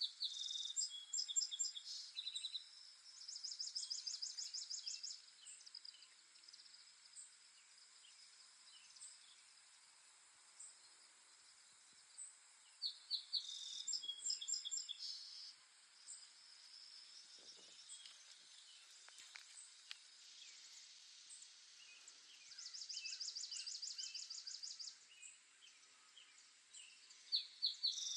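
Songbirds singing, one bird repeating the same loud phrase about every 10 to 13 seconds: a few quick high notes running into a fast trill. Between phrases there are scattered faint chirps over a steady high hiss.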